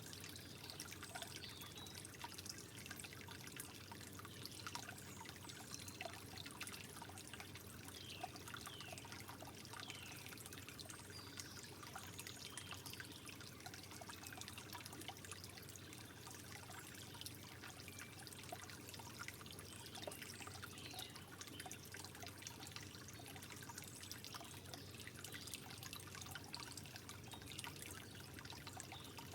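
Gentle trickling water: a steady soft babble with many small bright plinks and gurgles throughout.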